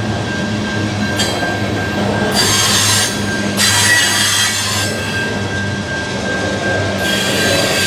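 A train passing on the rails. A diesel locomotive's engine hums steadily, a thin high wheel squeal holds throughout, and rushes of rail and wheel noise swell and fade, loudest about two to three seconds in and again near the end.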